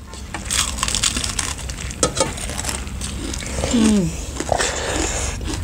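Close-up crunching and chewing of crispy fried fish eaten by hand, a dense run of irregular crackly bites. A short falling hum of a voice comes near four seconds in.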